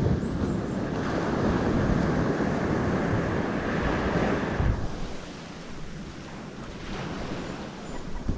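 Sea waves washing with wind buffeting the microphone, louder at first and easing off a little under five seconds in.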